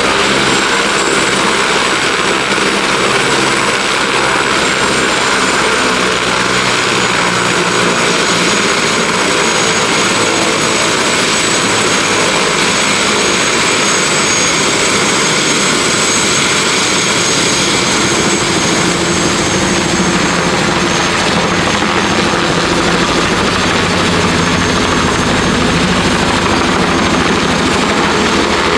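Turbine helicopter running steadily close by, engine and rotor noise with a high, steady turbine whine over it.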